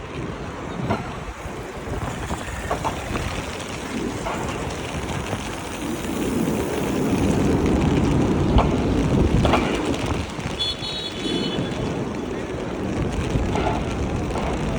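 Rainy city street: traffic and wind buffeting the microphone, louder for a few seconds in the middle, with scattered knocks and a brief high-pitched tone about eleven seconds in.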